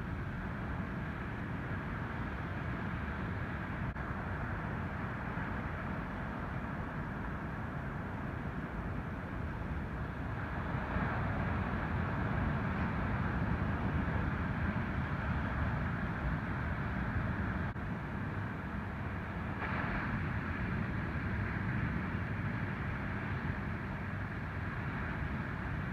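Ocean surf: a steady wash of waves breaking on a beach, rising louder about eleven seconds in and easing off again.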